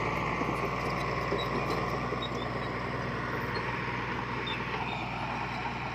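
Heavy diesel engine of earthmoving machinery running steadily under load, with a low rumble throughout. Its note drops a little near the end.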